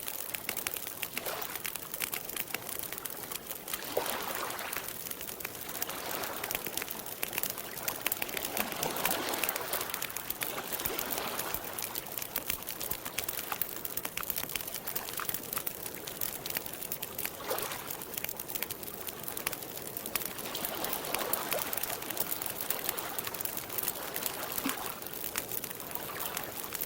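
Wood campfire crackling with a constant stream of small pops and snaps, over soft swells of lapping lake water every few seconds.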